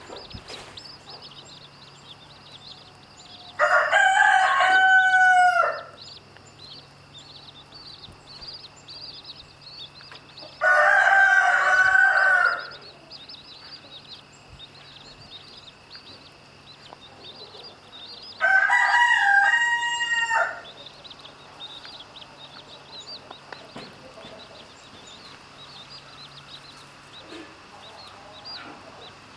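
Rooster crowing three times, each crow about two seconds long and several seconds apart, over a constant faint high chirping.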